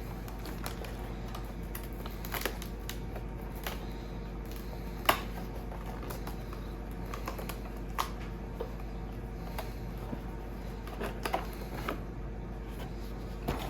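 Cardboard advent calendar box being handled and opened: scattered light clicks and rustles, the sharpest about five and eight seconds in, over a steady low hum.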